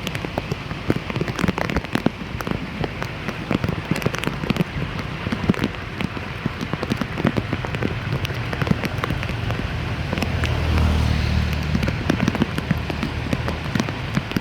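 Rain falling, with many sharp drop hits close by. A low rumble swells for a few seconds about ten seconds in.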